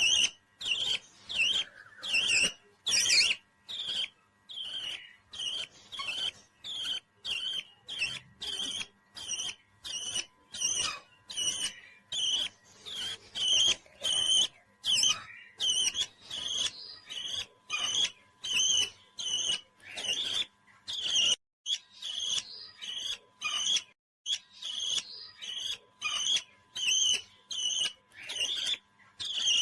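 Parrot chirping in a quick, even series of short high calls, about two a second.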